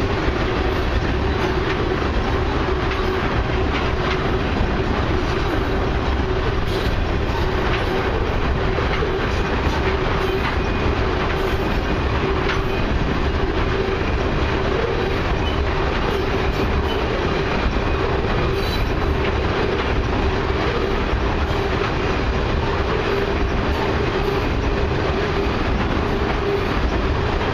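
Loaded crude oil tank cars of a long freight train rolling steadily past, a continuous rumble of steel wheels on rail with light clicking and a steady high whine.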